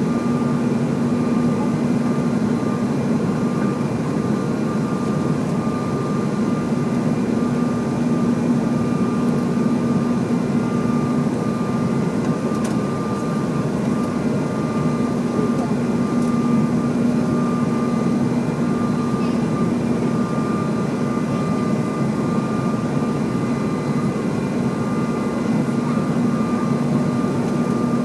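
Airliner jet engines droning steadily, a constant hum with a higher whine above it and no change in level.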